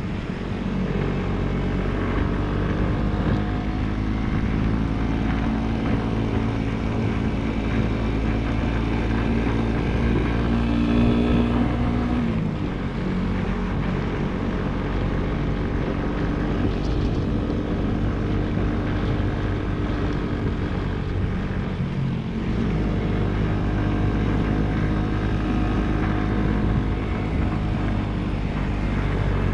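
Motorcycle engine running under way, with wind and road noise. The engine note shifts about twelve seconds in and again near twenty-two seconds, as with gear changes or throttle changes.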